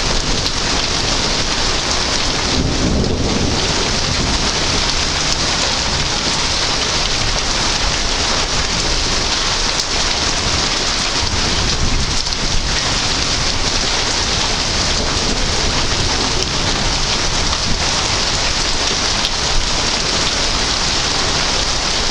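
Heavy thunderstorm rain pouring down steadily, with low rumbling thunder underneath.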